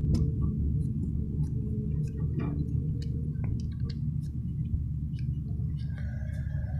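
A steady low rumble, with scattered light clicks and taps on top.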